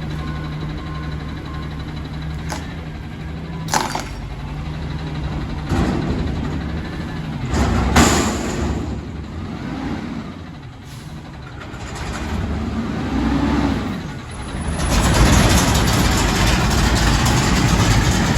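Garbage truck running, with a steady engine hum, several sharp knocks or short hisses, and the sound growing much louder about three-quarters of the way through.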